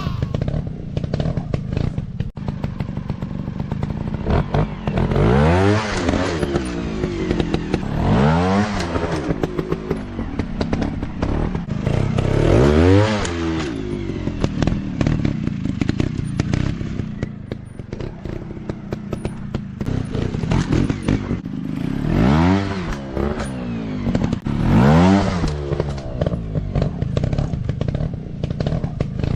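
Dirt bike engines running, revving up and dropping back about five times, with clattering and thuds in between.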